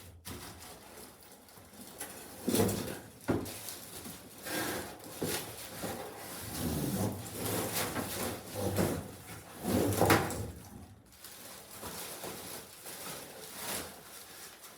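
Cardboard box being slid off a boxed tower light and handled: irregular scraping and rustling of cardboard, with a few sharp knocks of the light against the packaging.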